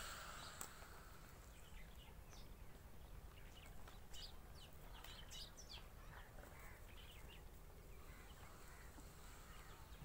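Faint, scattered bird chirps over a low steady rumble, near silence otherwise.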